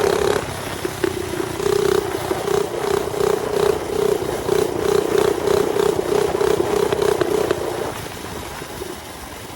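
Mini bike's small engine running under way with a steady, pulsing drone, over a rushing noise of wind and road. The engine note fades about eight seconds in.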